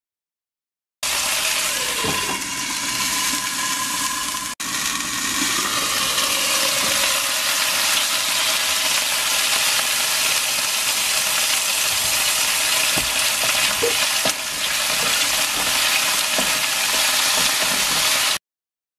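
Chicken pieces and garlic sizzling steadily in oil in a non-stick wok, with a few light knocks of a wooden spatula stirring them. The sizzle breaks off briefly once, about four and a half seconds in.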